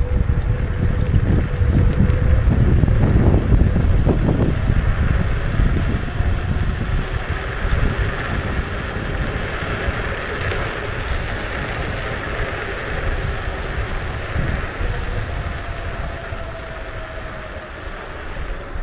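Wind buffeting the action camera's microphone and road rumble while riding a Kukirin G2 electric scooter, louder in the first few seconds. A faint steady whine sits underneath and rises slightly near the end.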